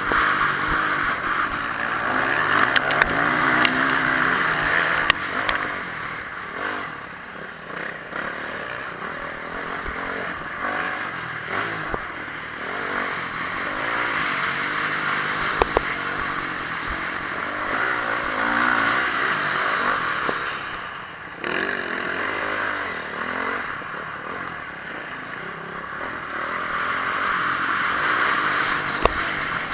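Honda CRF450R's single-cylinder four-stroke engine revving up and down again and again, under a steady rushing noise, with a few sharp knocks.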